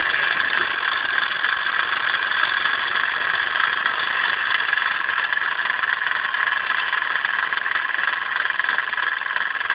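Small Meccano model steam engine running steadily: an even, fast hiss of escaping steam.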